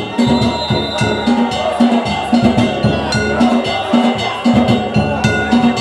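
Danjiri festival hayashi: a taiko drum beaten in a steady rhythm of about two strokes a second, with metal hand gongs ringing and clanging over it.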